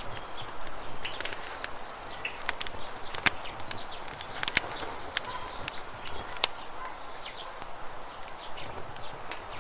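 Campfire crackling with irregular sharp pops over the steady rush of river water, with short bird chirps now and then.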